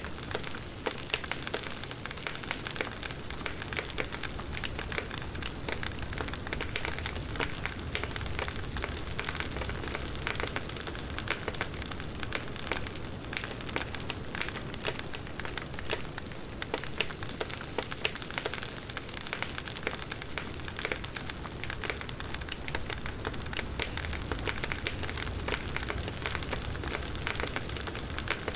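Wood bonfire crackling: a steady hiss of burning with many small sharp pops all through.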